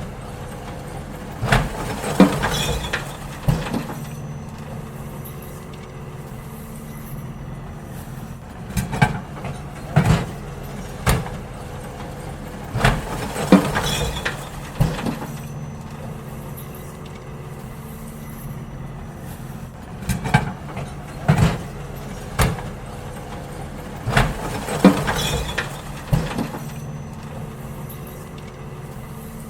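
Garbage truck working at the kerb: its engine runs steadily while bins are emptied into it, with clusters of loud clanks and bangs every few seconds as the bins are tipped and knocked against the hopper.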